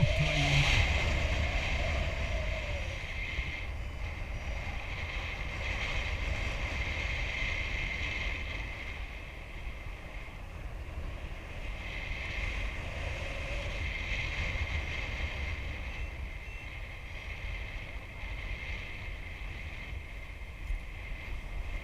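Wind rushing and buffeting over the microphone of a flying paraglider pilot: a steady low rumble with a hiss of airflow that swells and eases every few seconds in gusts.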